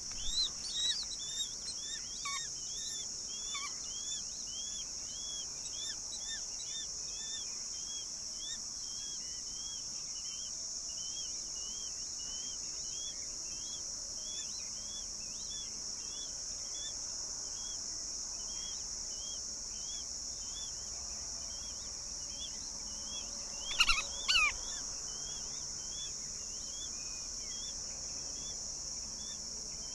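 A steady high insect drone, like crickets or cicadas, under a small bird's chirp repeated about twice a second. Just before halfway through the last third there are two brief louder calls.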